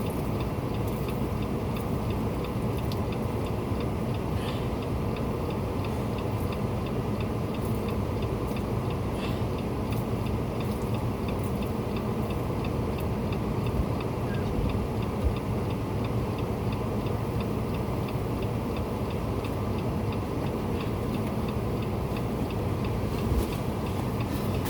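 Vehicle engine running steadily, with a light, regular ticking over it.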